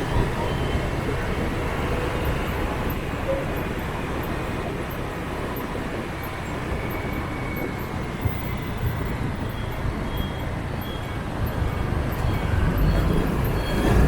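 City motorbike traffic heard from a moving scooter: a steady rumble of engines and road noise, growing louder near the end.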